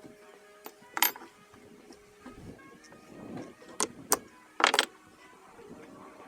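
Sharp metallic clinks and clanks of hand tools and small engine parts being handled during disassembly of a hit-and-miss engine's governor: one strike about a second in, then a cluster of strikes between about four and five seconds in, over quiet background music.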